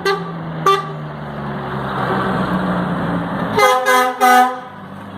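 Truck engine running steadily while horns sound: a short toot about half a second in, then two loud horn blasts close together about three and a half seconds in.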